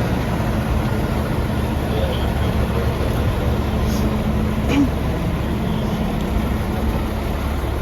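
A steady low engine hum with a constant drone, unchanging throughout, with a couple of faint clicks in the middle.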